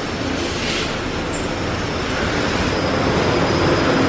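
Spot-free rinse arch of an automatic tunnel car wash spraying water over the car: a steady hiss that slowly builds in level, with a low machinery hum underneath.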